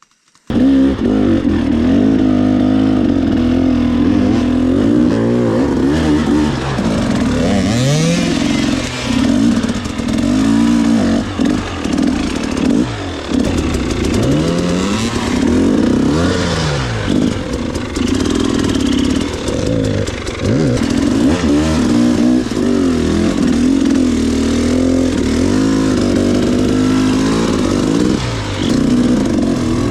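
Dirt bike engine running under load on a trail, the revs rising and falling again and again as the throttle is opened and closed.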